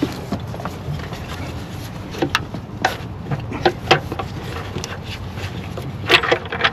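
Scattered light clicks and knocks of an upper intake plenum being handled and lined up on the lower intake, over a steady low hum. A small cluster of knocks comes near the end.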